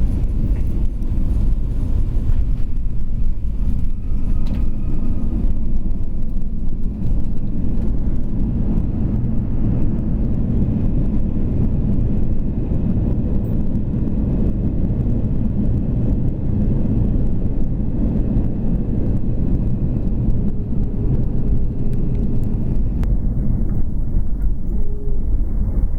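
Steady low rumble inside the cabin of an Airbus A321-211, with its CFM56 turbofan engines and the roll of the wheels, as the airliner moves along the ground after landing.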